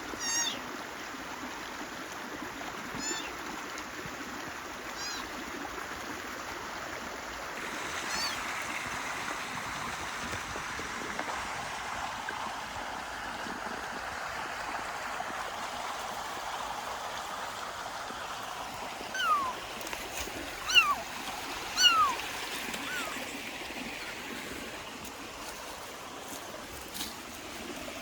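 A stream running steadily. About two-thirds of the way in, a kitten meows three times, each call falling in pitch, with fainter short high calls earlier.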